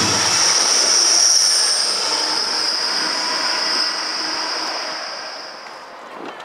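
A train moving away with a steady high-pitched wheel squeal over rail rumble, all fading and dying out about six seconds in.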